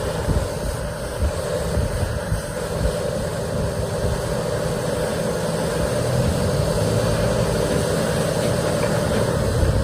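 Volvo A25F articulated dump truck's diesel engine running steadily, with a low rumble.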